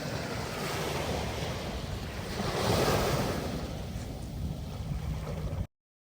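Sea surf washing onto a beach, with wind buffeting the microphone; a wave swells louder about two and a half seconds in. The sound cuts off abruptly near the end.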